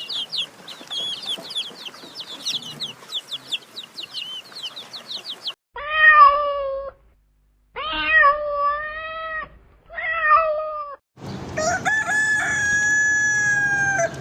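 A string of separate animal calls. First comes rapid, high chirping, several chirps a second, for about five seconds. Then three short pitched calls that bend in pitch, and then one long held call over background noise.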